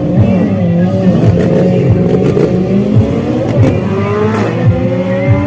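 Drag-racing motorcycle engines revving, several pitches rising and falling at once, with a steady rising rev building in the second half over a constant low engine hum.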